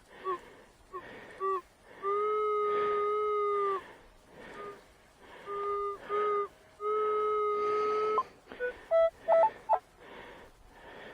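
Metal detector sounding target tones as the coil is swept over a buried object: a few short chirps, then a low steady tone held three times for about a second or more each, and a few brief higher tones near the end. It marks a strong, repeatable signal, a nice signal from a target about 6 inches down.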